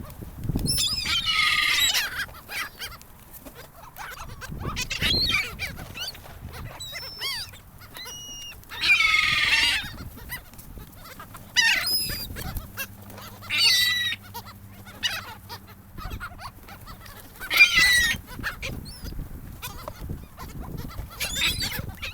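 Seagulls calling: repeated loud bouts of harsh squawking calls, with quieter single calls in between.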